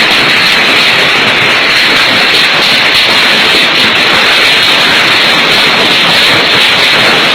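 Hailstorm: hailstones and heavy rain pelting down in a dense, loud, steady hiss of countless small hits.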